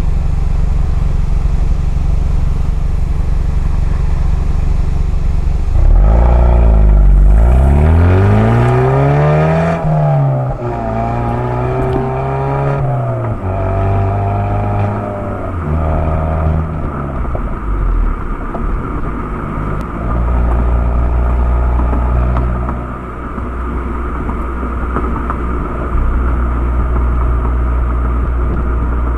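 Exhaust of a 2019 Hyundai Veloster N's turbocharged four-cylinder engine. It idles, revs up about six seconds in with the pitch climbing for a few seconds, comes back down in steps and settles to a steady idle for the second half.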